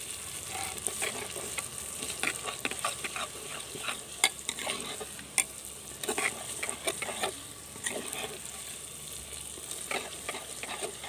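Onions frying in ghee in a clay pot, sizzling steadily while a metal ladle stirs and scrapes them, clicking against the pot with a few sharper knocks. The onions are at the light-brown stage, with ginger-garlic and red chilli paste mixed in.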